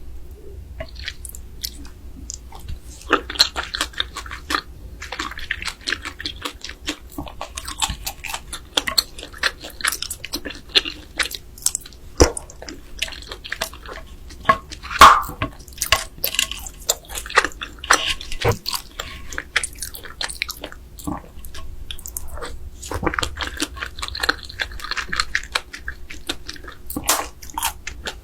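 Close-miked eating of raw marinated crab: biting and chewing, with many sharp, wet clicks and crackles. The loudest snap comes about fifteen seconds in.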